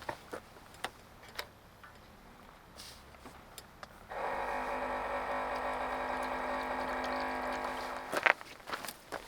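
A small electric motor whirring at a steady pitch for about four seconds, starting abruptly a little before halfway and stopping near the end. Light clicks and knocks come before it, and a couple of sharp clicks right after it stops.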